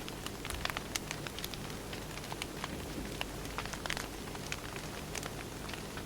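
Firewood burning: irregular sharp crackles and pops over a steady hiss.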